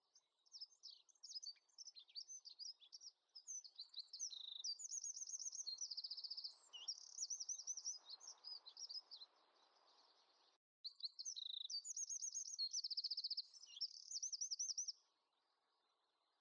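Small songbirds chirping and twittering in quick rising and falling notes and fast trills. The chirping cuts out abruptly for a moment about ten and a half seconds in, then stops about fifteen seconds in.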